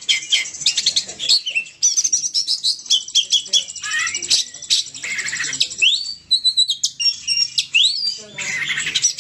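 Oriental magpie-robin (kacer) singing at full intensity: a fast, unbroken stream of varied whistles, upward-sweeping notes and rapid harsh chatter.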